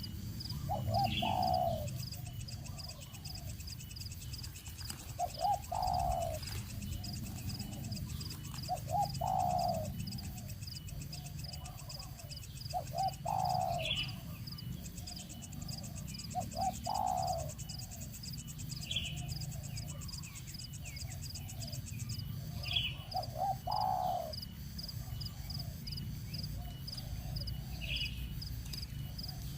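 A bird calling over and over, a short rising-and-falling call about every four seconds, with now and then a higher chirp. A steady, fast, high pulsing sound runs underneath.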